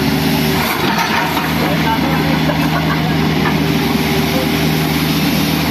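An engine running steadily at a constant speed, with voices faintly over it.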